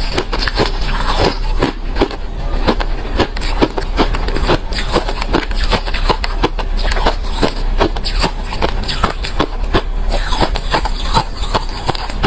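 Refrozen crushed ice being chewed: dense, irregular crunching with many sharp cracks, several a second.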